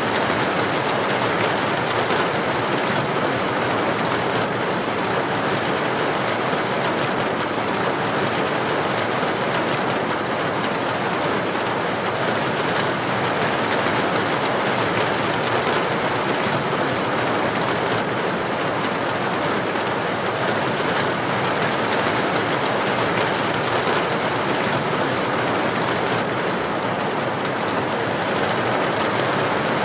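Heavy rain pouring steadily onto a street, a dense even hiss with no distinct thunder claps.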